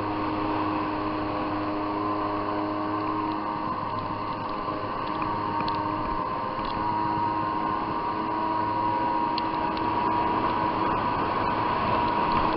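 Jet ski engine running at a steady speed, with a hiss of water and wind.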